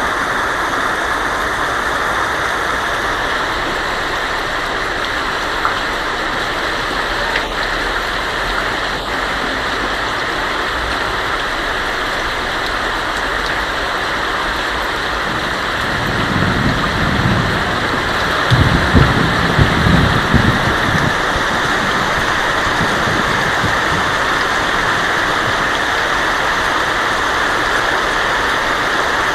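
Heavy rain falling steadily on a tin roof. About halfway through, a rumble of thunder swells for several seconds and then fades.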